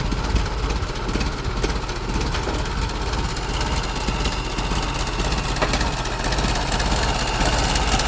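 Ford Model T's 2.9-litre (177 ci) four-cylinder engine idling steadily with a rapid, low firing beat, a little louder near the end.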